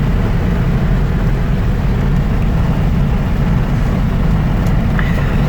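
Steady road noise inside a moving car's cabin: a constant low engine and tyre rumble with a hiss of tyres on the road.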